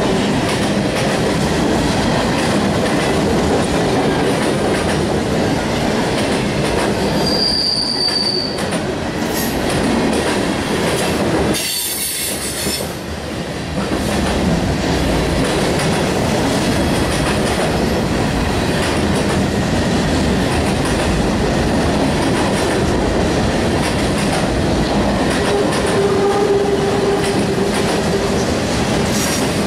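A train rolling past close by: the steady rumble and clatter of wheels on rails. There is a brief high-pitched wheel squeal about eight seconds in, a short lull around twelve seconds, and a shorter, lower steady tone near the end.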